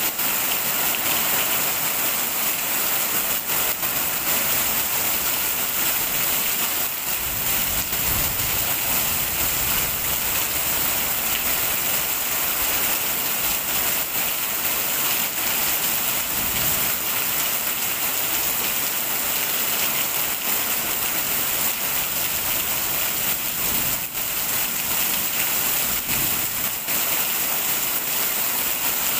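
Steady rain falling onto a stone wall and wet paving, drops splashing in a dense, even hiss.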